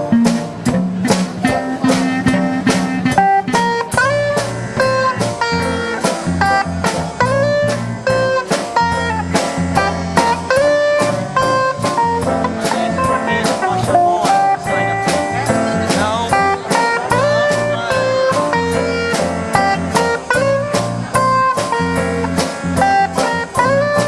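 Rock band playing an instrumental passage: a lead electric guitar solo with many bent notes over a bass line and a steady drum beat.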